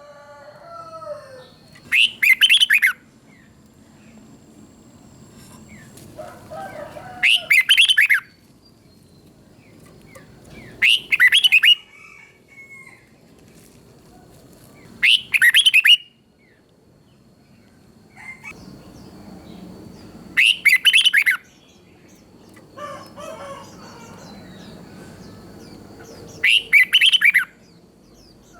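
Red-whiskered bulbul singing: short, loud song phrases about a second long, repeated six times at gaps of four to six seconds, with softer chatter between them.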